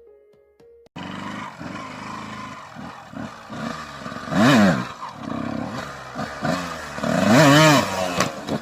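Motorcycle engine running and being revved, with two loud revs that rise and fall, about halfway through and again near the end.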